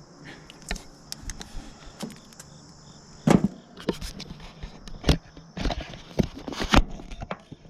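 Irregular clinks and knocks of metal tools and fittings being handled, the loudest a few seconds in, while a flare nut on a copper refrigerant line is readied for hookup.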